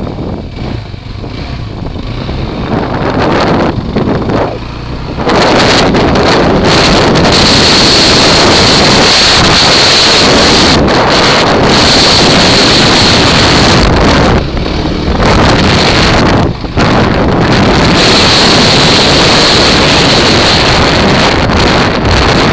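Wind buffeting the microphone of a camera riding on a Kawasaki KFX ATV, over the quad's engine. The first few seconds are quieter with the engine more audible; about five seconds in, the wind rush jumps up and stays very loud, dropping out briefly twice.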